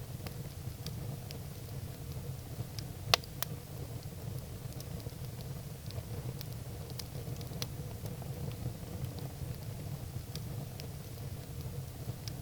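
Firewood burning in a fireplace, crackling with scattered small snaps over a low steady rumble, and two sharp pops close together about three seconds in.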